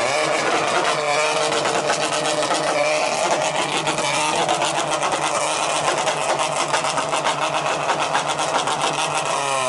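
A car engine with a loud exhaust held at high revs for about ten seconds, with a fast, even pulsing, cutting off sharply at the end.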